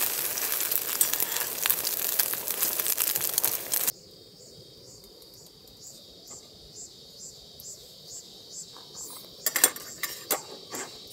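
Loud crinkling, crackling noise for a few seconds, which cuts off abruptly. It is followed by quiet insects chirping in a steady rhythm, about two pulses a second, with a few light clicks near the end.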